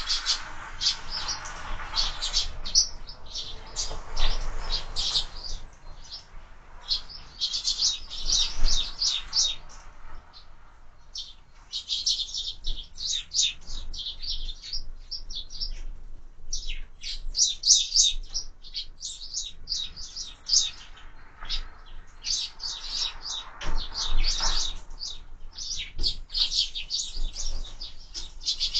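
A flock of sparrows chirping continuously, with many short, overlapping high chirps coming in dense runs and brief lulls.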